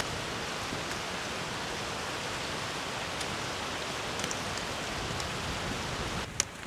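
Steady, even rushing noise of mountain weather and water along a snowy glen, with a single sharp click near the end.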